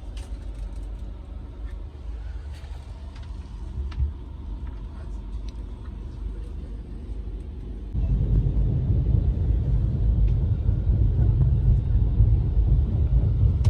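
Low, steady rumble of a train, with a few faint clicks; about eight seconds in it steps up abruptly to a louder, heavier rumble with a steady low hum.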